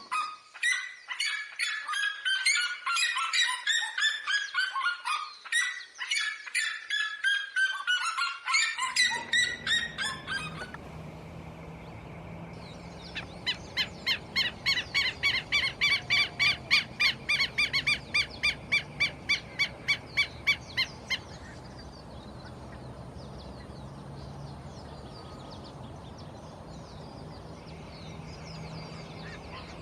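Loud bird calls: for about ten seconds a dense run of yelping notes that fall in pitch, then, over a different background, a fast even series of harsh repeated calls lasting about eight seconds, after which only a steady outdoor hiss remains.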